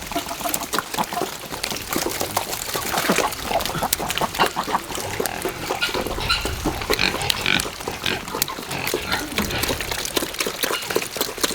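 Farm animals calling: a dense run of many short, overlapping calls and clicks.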